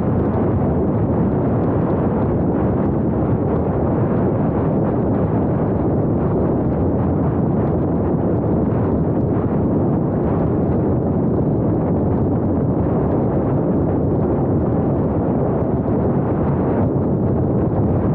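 Steady wind buffeting and road rumble on a small action camera's microphone while driving, a dense, even noise without any pitched engine note.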